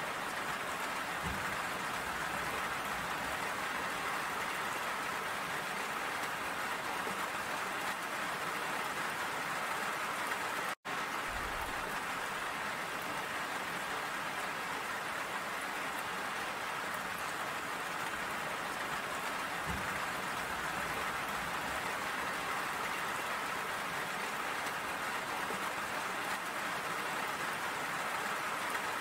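Steady rain falling, an even hiss of many drops; it cuts out for an instant about eleven seconds in.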